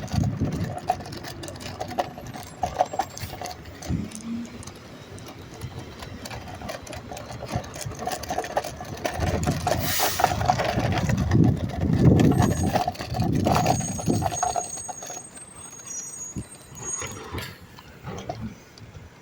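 Garbage truck working close by: its diesel engine runs louder and heavier for several seconds in the middle, over a steady whine, with a short hiss about ten seconds in.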